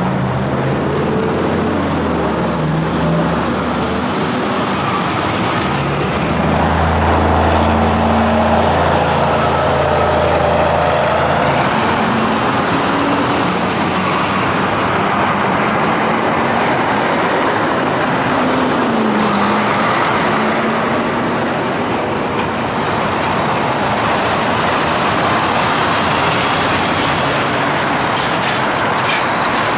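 Semi trucks passing on a highway: steady tyre and road noise with the low hum of diesel engines, loudest as one rig goes by about a quarter of the way in, and a falling engine pitch as another passes later.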